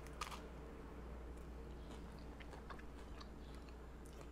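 A person biting into a tortilla-wrapped burrito just after the start, then chewing the mouthful faintly, with scattered small crunchy clicks from the crushed chips in the filling, over a low steady hum.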